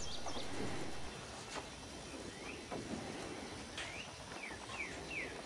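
A bird chirping in a run of about seven short, falling notes in the second half, with a few higher falling chirps at the very start, over faint outdoor background noise.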